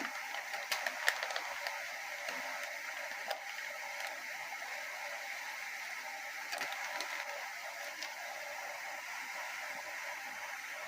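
Hot oil sizzling steadily while frying, with scattered pops and crackles, most of them in the first second and a half and again about six and a half seconds in.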